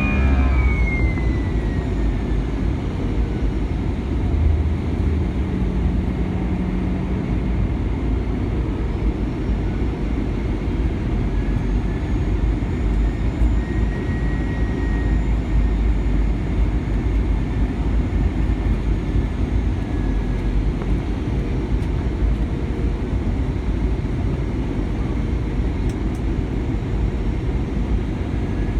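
Airbus A320-200 jet engines spooling down, heard from inside the cabin: a high whine falls in pitch over the first couple of seconds and leaves a steady low rumble. A faint whine begins to rise again near the end.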